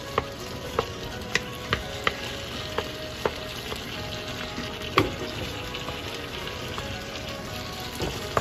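Sliced onions and tomatoes sizzling in oil in a pan, with a wooden spatula scraping and knocking against the pan as they are stirred. The knocks come irregularly, the loudest about five seconds in.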